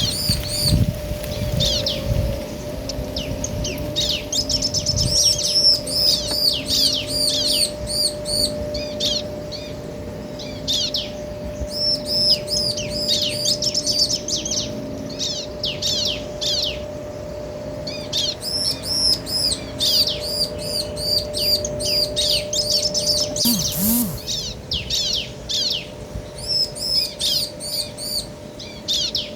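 Bar-winged prinias, male and female, calling back and forth in quick series of short, high, repeated chirps, with short pauses between bouts.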